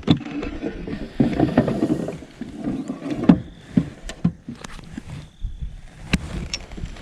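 Handling sounds aboard a fishing kayak: uneven knocks and thumps against the hull, with rustling between them. The sharpest knocks come right at the start, about three seconds in and about six seconds in.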